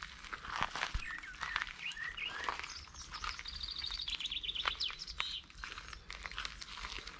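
Small birds chirping and calling, with a fast, high trill of quickly repeated notes in the middle.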